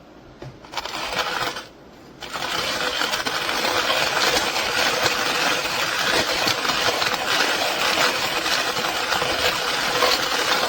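Matrjestice manual coffee grinder's ceramic burrs crushing coffee beans as the handle is cranked: a dense crunching rattle with many small clicks. It starts briefly, stops for about half a second near the two-second mark, then runs on steadily.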